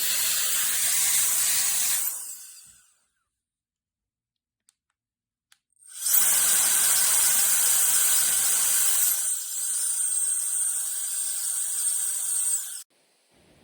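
Cordless electric air duster's high-speed fan blowing, a rushing hiss with a high whine, winding down about two seconds in. After two small clicks it starts up again with a rising whine that dips in pitch partway through, then cuts off sharply near the end.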